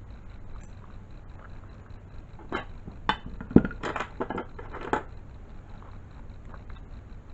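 A quick run of sharp clinks and knocks from hard objects being handled, about seven or eight in a couple of seconds, the loudest in the middle, over a low steady hum.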